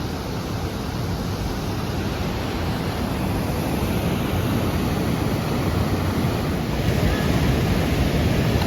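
Waterfall rushing steadily: a dense, unbroken noise of falling water that grows slightly louder over the last few seconds.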